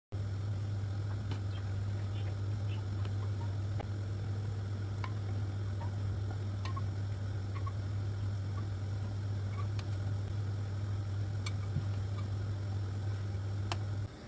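Steady low hum with faint, scattered light clicks and ticks over it; the hum cuts off just before the end.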